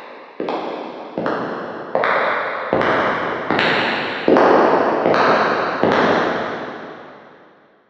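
Footsteps walking at a steady pace, about one step every 0.8 seconds, each step echoing. They grow louder as the walker comes closer, and the last step, about six seconds in, dies away.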